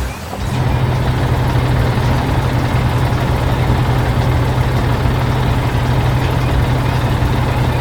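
Heavy machinery engine running steadily with a deep, constant hum.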